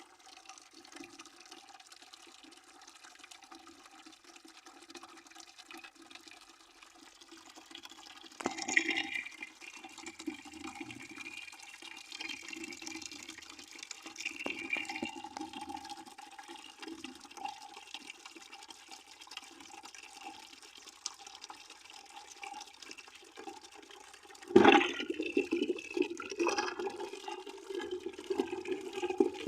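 Water running steadily into a bucket, splashing, with sudden louder surges about eight seconds in and again near the end.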